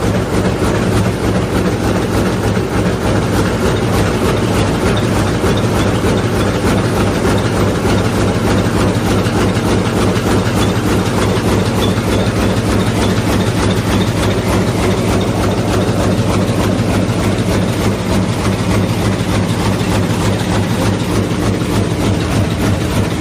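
A steady, loud mechanical rumble that runs on without change.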